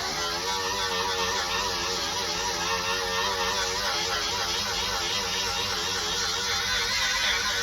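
A handheld abrasive power tool running steadily while it strips paint from bare car-body metal, its whine wavering in pitch as the load on the disc changes.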